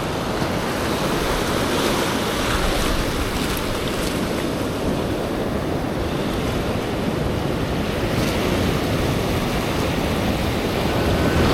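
Heavy ocean surf washing over and around a rock ledge: a steady rush of whitewater, with wind buffeting the microphone.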